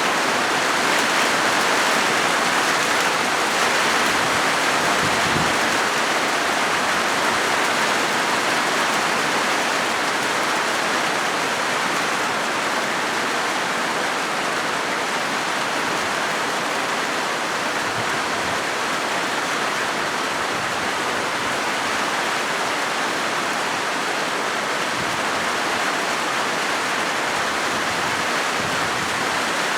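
Rain falling steadily on a corrugated zinc sheet roof, an even, unbroken hiss of drops on metal.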